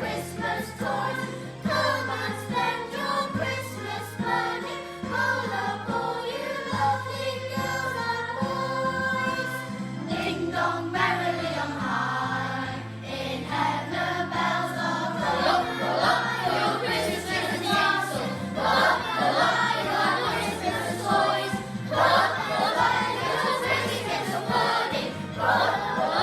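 Children's choir singing a Christmas carol together over an accompaniment with a stepping bass line.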